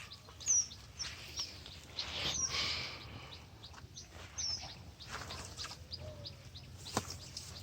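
Small birds chirping: short, high chirps and ticks repeated every second or so, with a single sharp click near the end.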